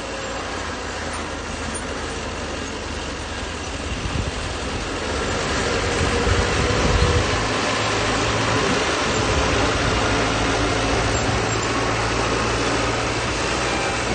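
Bulldozer's diesel engine running under load, growing louder about four seconds in, then holding steady.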